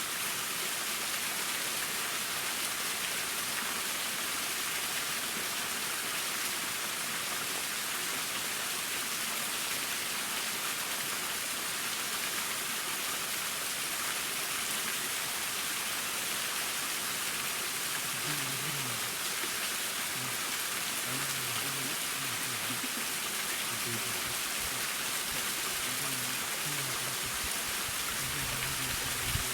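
Waterfall splashing: a steady, even hiss of falling water, mostly high-pitched. From about midway, faint low tones come and go underneath it.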